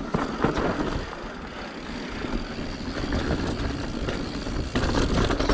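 Low, uneven rumble of a mountain bike rolling on a dirt trail, with wind on the microphone. It eases off after the first second and grows louder again near the end.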